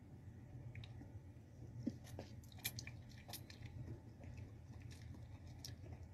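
Faint chewing and wet mouth smacks of a person eating instant ramen noodles, in scattered small clicks that grow busier from about two seconds in, over a low steady hum.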